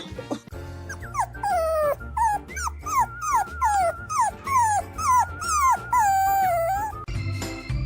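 A dog whining in a run of high cries, each sliding down in pitch, about two a second, over background music with a steady low beat.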